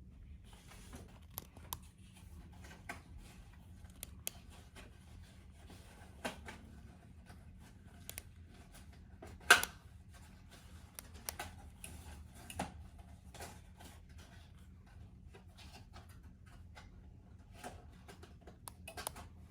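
Scattered light clicks and taps, with one louder knock about halfway through, over a faint steady low hum.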